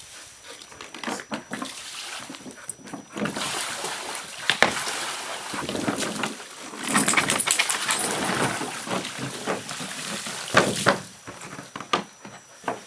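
Water splashing and sloshing around a dog during a bath, in irregular rushes with sharp knocks, the longest rush a few seconds long in the middle.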